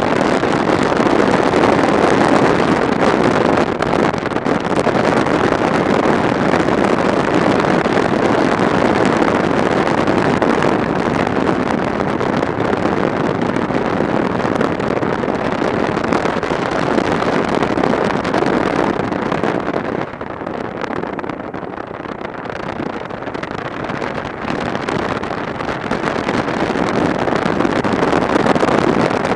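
Wind rushing over the microphone of a moving motorcycle at road speed, a steady noise that eases for a few seconds about twenty seconds in.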